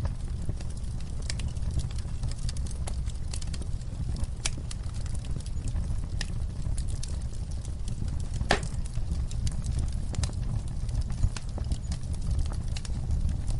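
Campfire burning: wood crackling and snapping in irregular sharp clicks over a low steady rumble of the flames, with one louder pop about two-thirds of the way through.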